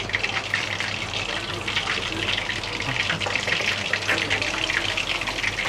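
Chicken leg pieces frying in hot oil, a steady sizzle with dense fine crackling.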